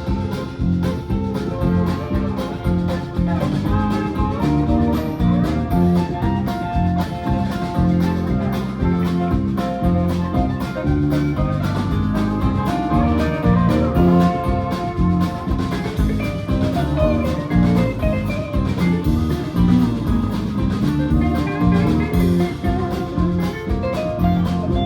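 Live band playing an instrumental break: guitar over a drum kit, with a steady beat.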